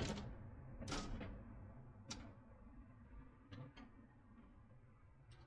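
A few sharp clicks and knocks, roughly a second apart at first, then two close together, over a low steady background hum.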